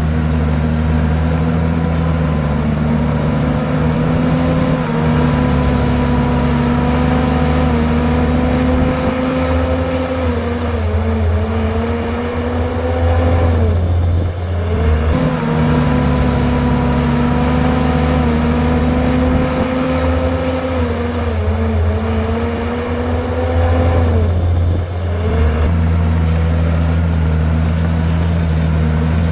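Komatsu bulldozer's diesel engine working hard and steadily. Its pitch drops sharply and climbs back twice, about eleven seconds apart, as the engine comes under load.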